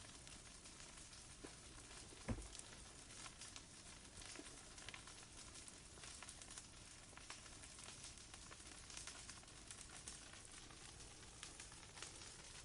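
Campfire crackling faintly: a soft hiss dotted with many small pops, and one louder pop about two seconds in.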